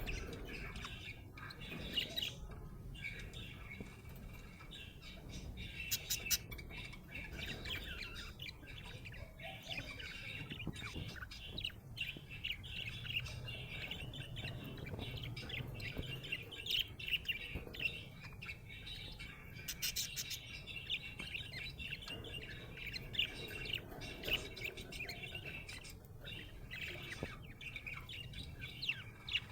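Budgerigar chirping and warbling in a continuous rapid chatter of short chirps, with a few sharper squawk-like notes.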